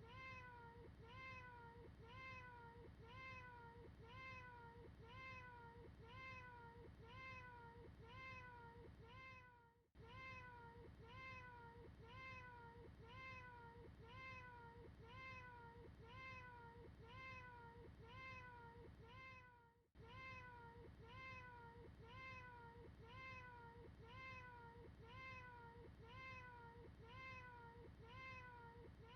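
A cat's meow, looped: quiet short meows repeating about twice a second, each rising then falling in pitch. The run breaks off for a moment about every ten seconds.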